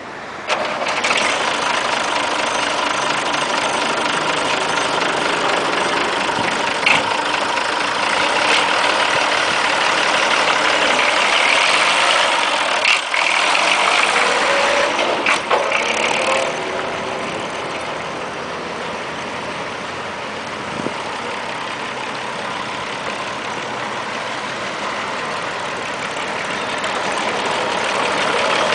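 Massey Ferguson 1075 tractor's diesel engine starting about half a second in and then running steadily, with a few sharp clicks. It eases off after the middle and builds again near the end.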